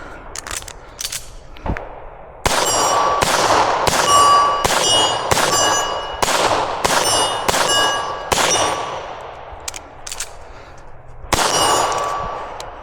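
Gunshots in a fast string of about ten over six seconds, each followed by the ringing ping of a steel target being hit, then one more shot and ring after a short pause.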